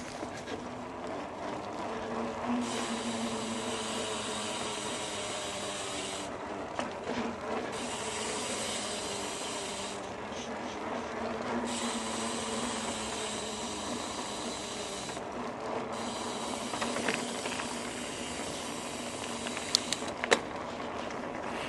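Trek Roscoe 8 mountain bike being ridden: steady tyre and drivetrain noise, with a hiss that drops out and returns several times and a few sharp clicks near the end.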